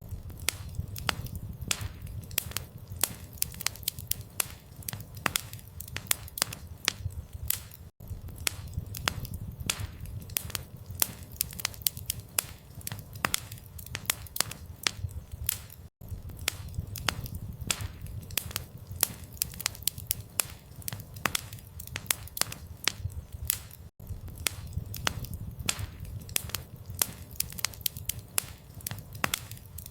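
Campfire crackling: dense, irregular sharp snaps over a steady low rumble. The sound loops, with a brief dropout about every eight seconds.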